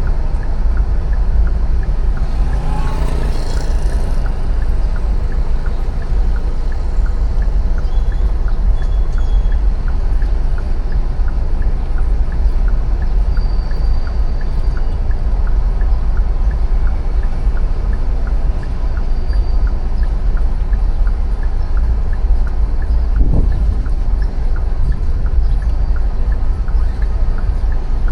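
City street traffic heard from a moving bicycle, with a steady deep rumble of wind on the microphone. A light ticking repeats at an even pace throughout.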